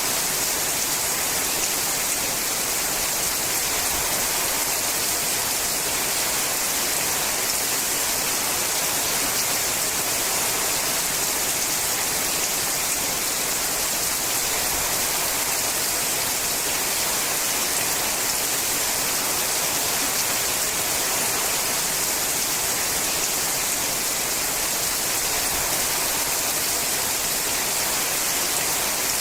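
Steady, unbroken rain falling on a sheet-metal roof, an even hiss with no single drops standing out.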